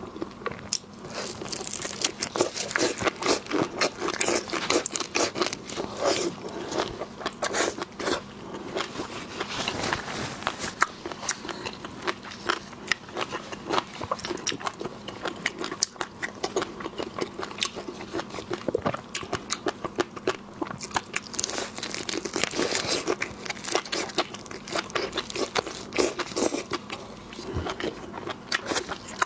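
Close-miked eating of seafood: a steady run of quick wet smacks and crunches from biting and chewing.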